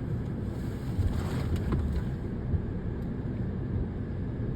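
Steady low rumble of a vehicle driving, road and engine noise, a little louder about a second in.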